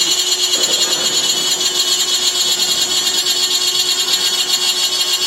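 Aluminum profile CNC drilling-milling machine cutting aluminum: a loud, steady, high-pitched cutting whine with a fine rapid flutter, over a steady lower tone.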